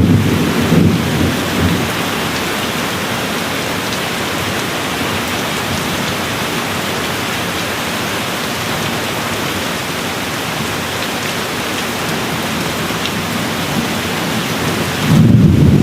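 Steady rain falling, with low thunder rumbling: a roll dies away in the first second or two, and another rolls in loudly just before the end.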